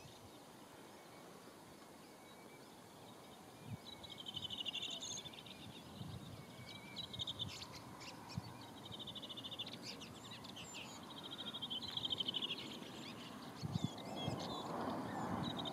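Birds calling: several rapid, trilling calls in a row, beginning about four seconds in, over a faint steady hiss. Near the end a rushing noise builds up.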